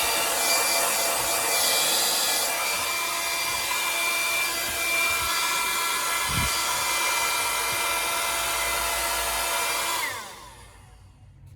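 Cordless rechargeable hair dryer running: a steady rush of air with a high motor whine. About ten seconds in it is switched off, and the whine falls away as the motor spins down.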